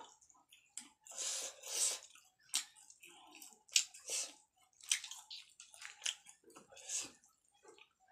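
Close-miked wet chewing and mouth sounds of a person eating rice and grilled chicken by hand. They come in irregular bursts, about one or two a second.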